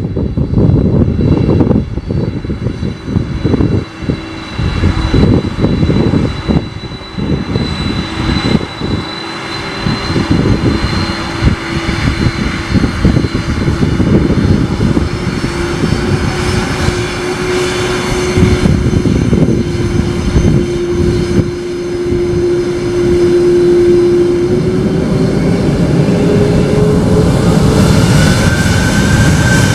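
Boeing 747-400F jet engines running loud, with an uneven low rumble under a steady whine. Past the middle the whine rises in pitch, and a higher tone climbs near the end.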